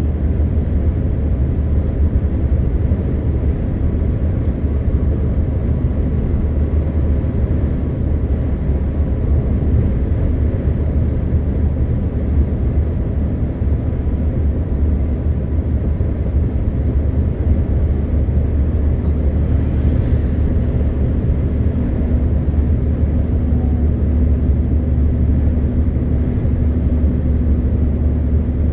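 MAN TGX 520 truck's straight-six diesel running at a steady cruise, a deep even drone mixed with road noise. A few faint clicks come just past the middle, and a steady hum joins soon after.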